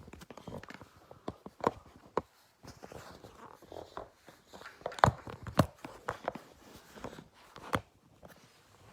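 Handling noise as phones and their mounts are moved and adjusted near the microphone: irregular clicks, taps and knocks, with louder knocks about five seconds in and near the end.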